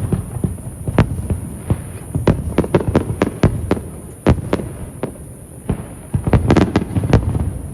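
Aerial fireworks bursting overhead: a string of sharp bangs at uneven spacing over a continuous low rumble of echoing booms, with a quick rapid-fire cluster of cracks about six seconds in.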